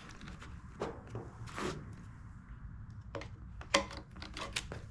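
Scattered light clicks and rattles of plastic blower housing and parts being handled, with one sharper click or knock about three-quarters of the way through.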